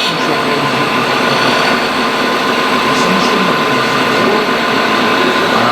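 Radio-controlled scale excavators working: the steady whine of their electric hydraulic pumps and geared drives, with a gritty rattle underneath and a few light clicks.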